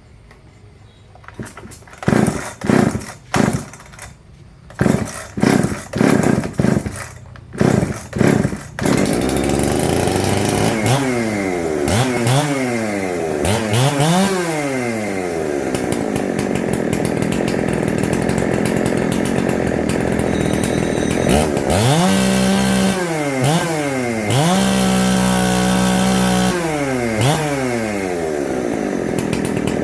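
Husqvarna 365 two-stroke chainsaw engine: several short bursts as it is pull-started, then it catches about nine seconds in and keeps running, revved up and down several times with the throttle and held at high revs for a couple of seconds near the end.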